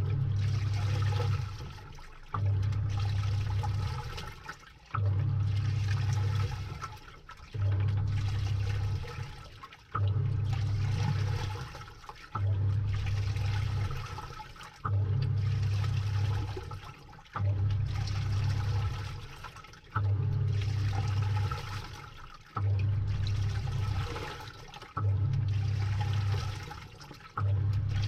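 Samsung top-load washing machine agitating a load in water, heard from inside the drum: the motor hums in strokes about every two and a half seconds, each followed by the water sloshing and dying away before the next stroke.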